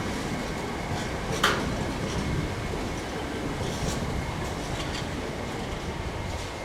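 A train running past with a steady rumble. There is a sharp click about a second and a half in, and fainter clicks follow every second or so.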